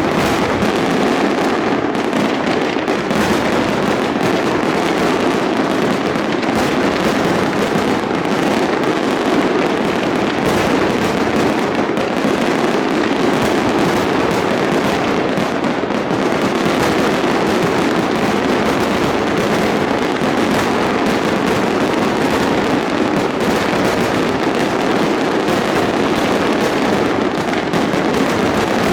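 Fireworks display: a dense, continuous barrage of bursts and crackles with no pause, steady in loudness throughout.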